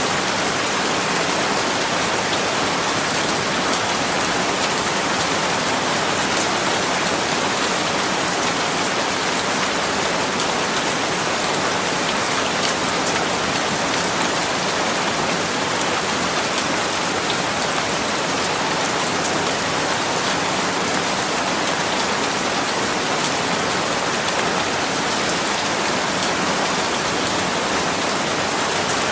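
Steady rain falling on a surface: a dense, even hiss, with many fine patters of individual drops.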